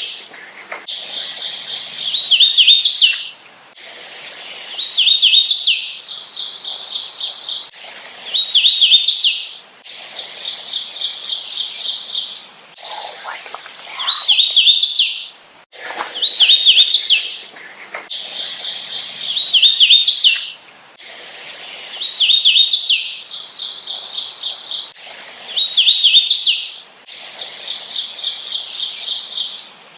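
Hooded warbler singing its song over and over, a phrase about every two seconds: a run of clear slurred whistled notes ending in a sharp rising flourish, alternating with phrases of quick even notes.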